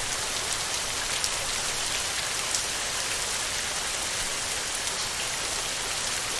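Heavy rain drumming steadily on a tin roof, a dense even hiss with scattered sharper drop ticks.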